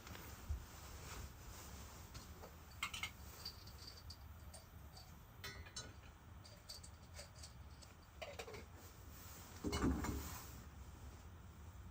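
Scattered light clicks and clinks of small objects being handled, with a louder knock about ten seconds in.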